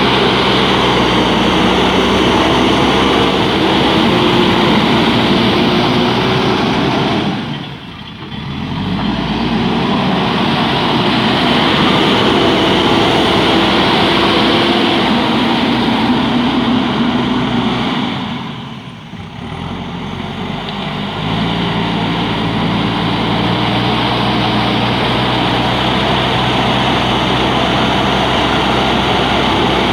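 JCB backhoe loader's diesel engine running under load, its pitch shifting as the revs change. The sound drops away briefly twice, about eight and nineteen seconds in, then returns.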